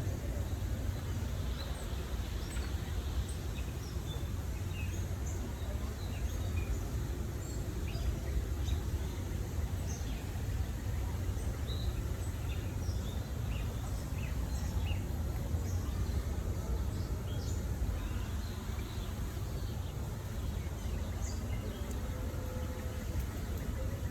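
Small birds chirping with many short, scattered high calls over a steady low rumble of background noise.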